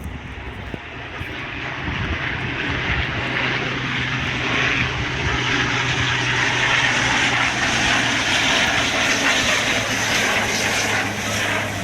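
An airplane's engine drone, with a steady low hum, grows louder as the aircraft passes, then eases off slightly near the end.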